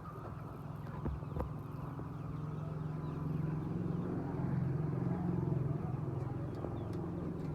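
A motor running steadily, a low hum that grows slightly louder toward the middle, with two short knocks about a second in.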